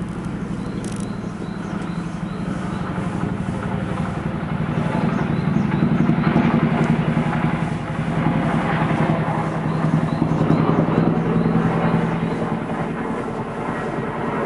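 Helicopter flying past, its rotor beat swelling louder over the first several seconds, holding, then easing slightly near the end.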